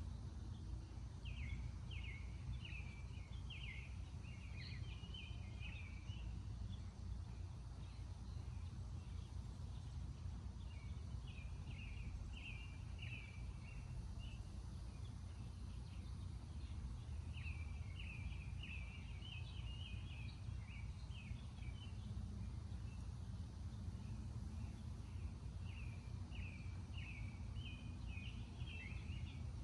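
A songbird singing in four bouts of quick, chirpy notes separated by pauses of a few seconds, over a steady low outdoor rumble.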